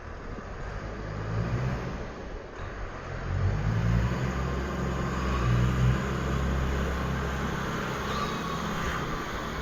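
New Holland TS100A tractor's diesel engine running, growing louder over the first few seconds and then holding steady.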